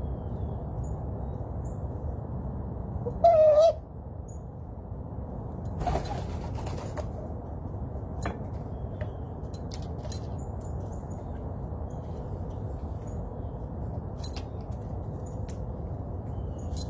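Wild birds calling: one loud, wavering call lasting about half a second, about three seconds in, then scattered faint, short high chirps over a steady low background rumble. There is a brief rustle near six seconds.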